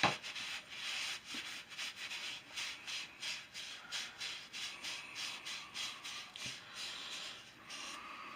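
A carved wooden walking stick being wiped down by hand, wiping off stain, in quick back-and-forth rubbing strokes about three a second. A sharp knock right at the start is the loudest sound.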